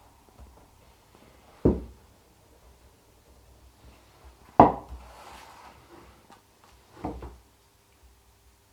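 Three short knocks on a tabletop, about three seconds apart, as card pieces and craft tools are handled and set down while the paper kite is assembled.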